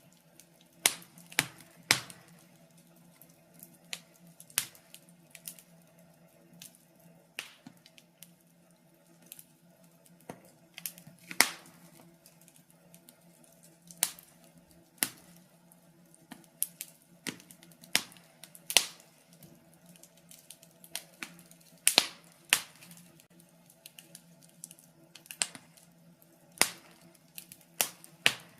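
Wood fire in a fireplace crackling: irregular sharp pops and snaps, about one or two a second, some much louder than others.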